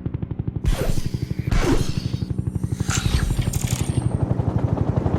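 Helicopter rotor chopping in a fast, steady beat, with several loud whooshing sweeps passing over it.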